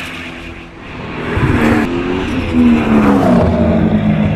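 Zenvo ST1 supercar's 7.0-litre V8 running hard at speed, its pitch climbing and dropping as the revs change. It dips briefly, then is louder from about a second and a half in.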